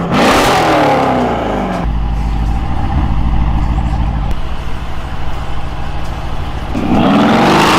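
Mercedes-AMG GLE63 S's twin-turbo V8 through an Fi valved aftermarket exhaust: a rev dropping back in the first two seconds, a steady low idle, then a fresh rev rising near the end.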